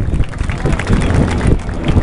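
Wind buffeting the microphone over the drone of propeller aircraft flying overhead.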